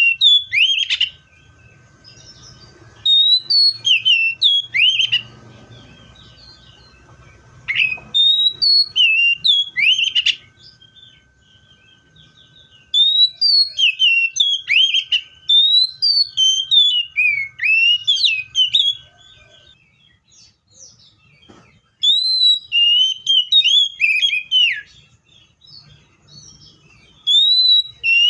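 Seychelles magpie-robin singing: loud, clear whistled phrases that swoop up and down, delivered in bursts of a few seconds with short pauses between them. A faint steady high tone hums underneath for most of the first two-thirds.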